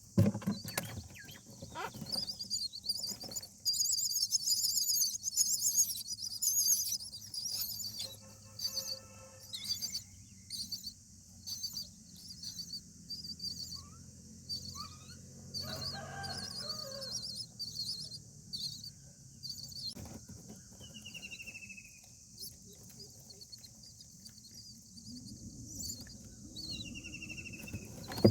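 Indian myna nestlings cheeping: rapid, high-pitched chirps repeated throughout, loudest and densest a few seconds in, with a couple of short falling whistles near the end.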